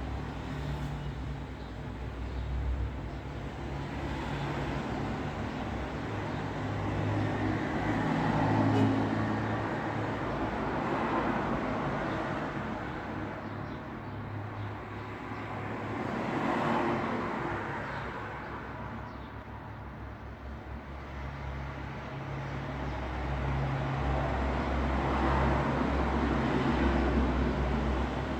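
Road traffic: vehicles passing one after another, each swelling and fading, over a steady low engine rumble. The loudest pass comes about a third of the way in, and more follow near the end.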